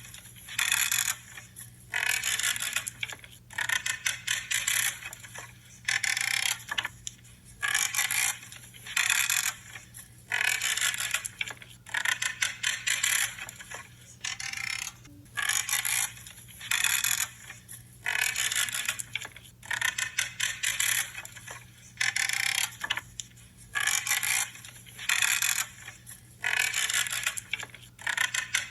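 Pruning shears cutting through branches over and over, about one cut a second, each a short crunchy, creaking snip.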